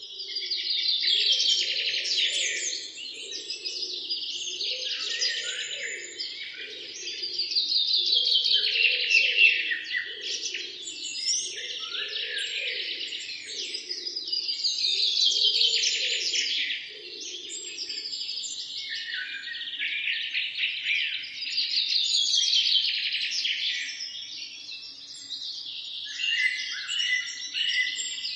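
A chorus of several songbirds singing over one another, with one loud trilled song phrase recurring about every seven seconds. A softer, lower pulsing sound runs underneath and stops about two-thirds of the way through.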